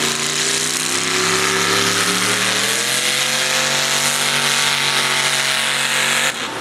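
Mini modified pulling tractor's small-block engine running hard at high revs under load, its pitch rising a little about halfway, then cutting off suddenly near the end.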